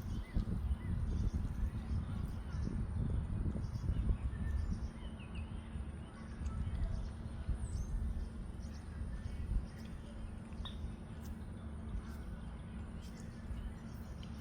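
Small birds chirping faintly here and there over a steady low outdoor rumble.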